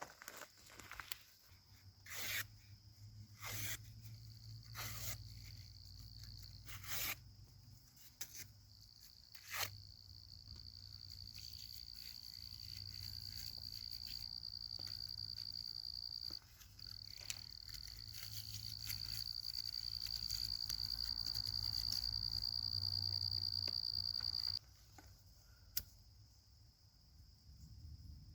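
An insect drones at one steady high pitch. It grows louder, breaks off briefly in the middle, and stops suddenly a few seconds before the end. Several sharp cracks come in the first ten seconds.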